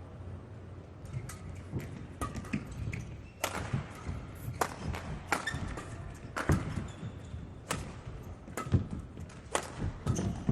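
Badminton rally: rackets striking the shuttlecock in an irregular series of sharp hits, starting about a second in, with short squeaks of court shoes between them.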